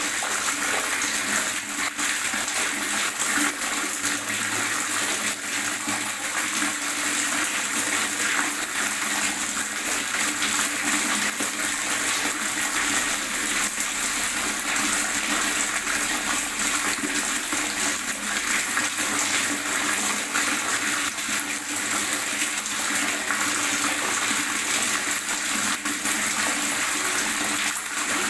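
Water gurgling and bubbling steadily, with no let-up.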